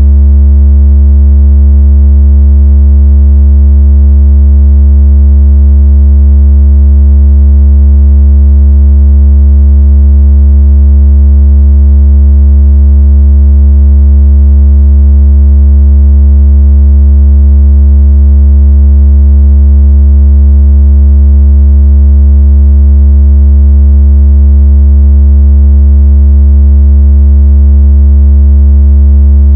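Low-pitched electronic tone of the kind used as a speaker water-ejection and bass-test sound, held steady and unbroken at a very high level, with faint overtones above it.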